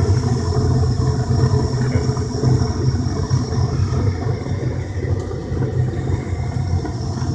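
Gas forced-air furnace running during its start-up sequence: a steady low hum and rumble.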